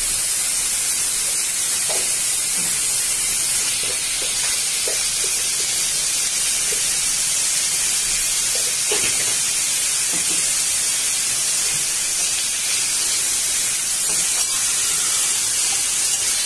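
Sliced onions and green chillies sizzling in hot oil in a metal kadai, a steady hiss, with a few light knocks and scrapes of the spatula against the pan.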